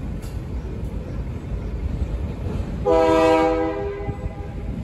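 Diesel freight locomotive rumbling past, with one short horn blast about three seconds in that is the loudest sound and fades over about a second.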